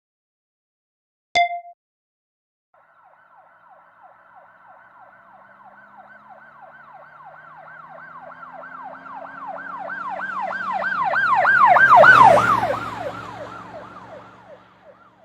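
Emergency vehicle siren in a rapid yelp, about three pitch sweeps a second, over an engine hum. It grows louder as the vehicle passes, the engine dropping slightly in pitch at the loudest point, then fades away. A short beep sounds just before it.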